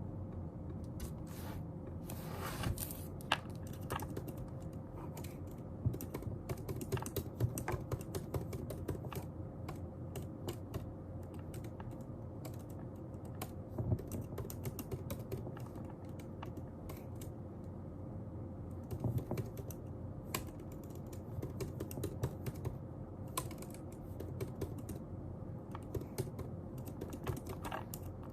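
Computer keyboard typing: irregular bursts of quick key clicks with short pauses between them, over a faint steady hum.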